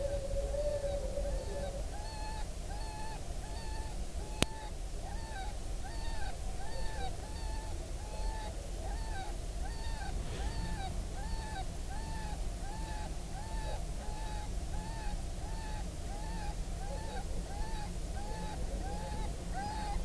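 Electronic predator caller (FoxPro) playing a repeating distress call: short arched cries, about two a second, in a steady unbroken rhythm, with a single sharp click a little over four seconds in.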